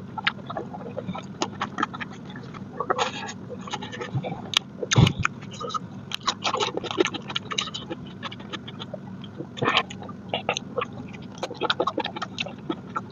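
Close-up eating sounds of mutton curry being chewed: wet chewing and lip smacking in quick irregular clicks, with one louder thud about five seconds in.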